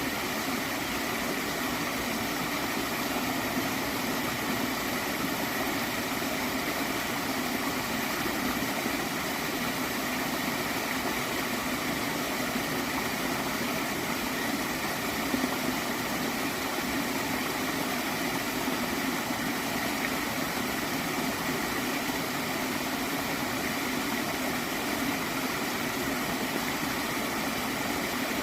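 A gentle water stream flowing and gurgling steadily.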